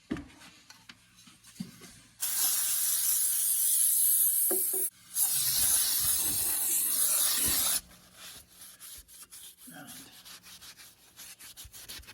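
Aerosol can of cleaner spraying onto the engine block in two long hissing bursts, each about two and a half seconds, with a brief break between. This is the surface being cleaned before a dye penetrant crack test. Faint irregular rubbing follows.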